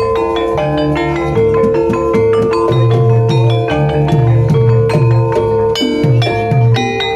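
Javanese gamelan music for an ebeg horse dance: struck bronze metallophones and gong-chimes ring out in quick notes over low drum strokes, about two a second.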